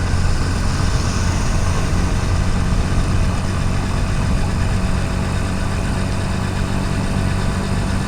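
Motorcycle engine running steadily under way, with a steady rush of wind and road noise on the helmet-mounted microphone.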